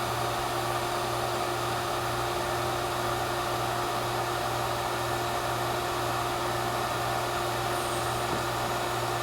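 Robinair two-stage vacuum pump running steadily with an even motor hum, deep into an evacuation with the vacuum down to about 150 microns.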